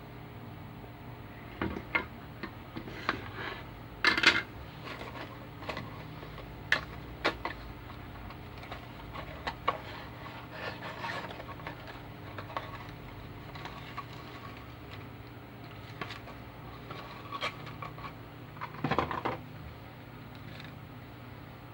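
Scattered clicks and light clatter of small hard objects being handled, irregular and unevenly spaced, with the loudest knocks about four seconds in and near the end, over a steady low hum.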